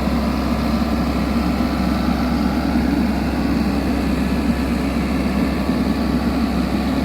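Small excavator's diesel engine running steadily at a constant speed.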